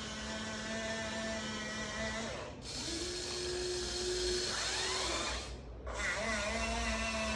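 Electric gear motors of a Huina 1593 RC excavator whining as the model is driven, the pitch shifting from one motion to the next, with two brief pauses where the motors stop and restart.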